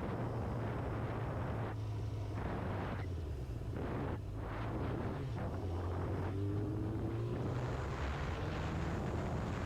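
Motorcycle riding heard from a rider-mounted camera: a steady engine drone under heavy wind noise on the microphone, with a brief rising engine note about seven seconds in.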